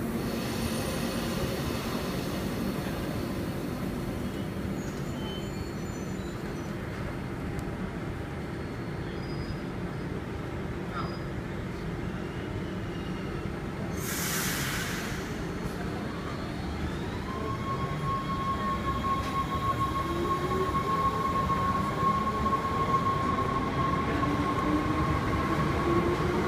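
Thalys high-speed electric train pulling out of the station: a steady low hum, a short burst of hiss about halfway, then rising whines as it gathers speed and grows louder.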